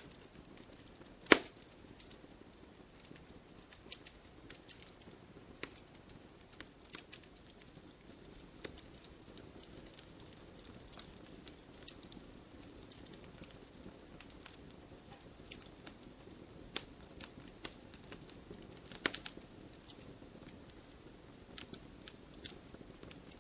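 Campfire burning steadily with irregular crackles and pops over a low hiss of flame, with a sharp loud pop about a second in and another near the end.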